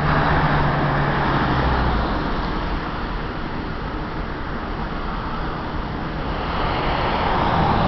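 Road traffic passing: a car's engine hum fades out about two seconds in over a steady tyre hiss, and the hiss swells again near the end as another vehicle approaches.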